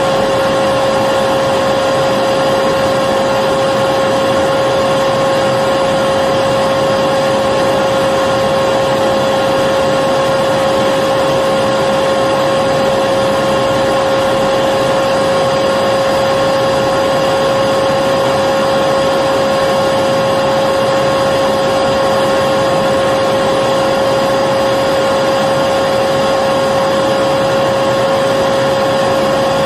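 Vacuum cleaner running steadily at a constant pitch, with a strong motor whine over the rush of air and no change in speed.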